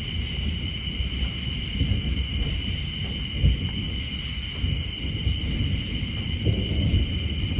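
Low, continuous rumble of distant thunder under a steady night chorus of tree frogs and insects: several constant high trills, the highest one pulsing on and off about every two seconds.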